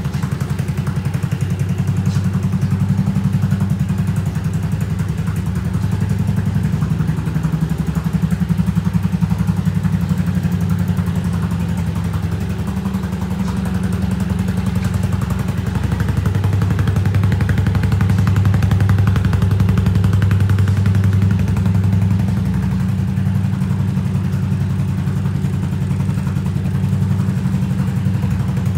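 Yamaha Majesty 250 scooter's single-cylinder four-stroke engine running steadily at idle, with a few gentle rises and falls in engine speed.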